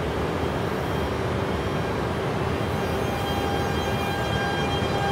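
E926 East-i Shinkansen inspection train pulling slowly away from the platform: a steady low hum and rumble from the train, with a thin, level electric whine coming in about three seconds in as it starts to move.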